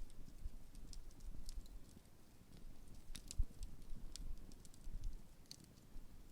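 Large open bonfire burning down, its wood crackling with scattered sharp pops over a low, uneven rumble.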